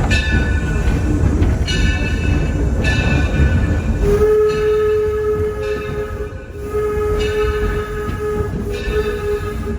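Steam train running with a steady rumble, the locomotive's bell ringing about once a second, then its steam whistle blowing a few long blasts from about four seconds in.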